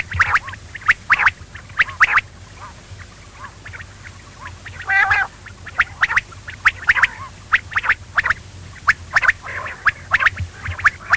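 Quail calling: clusters of short, sharp repeated notes, with one longer call about five seconds in.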